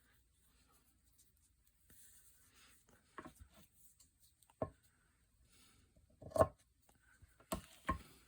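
Paper crafting at a table: soft rustling and rubbing of paper, with several light taps and knocks of tools or paper set down. The loudest knock comes about six and a half seconds in, and two more come close together near the end.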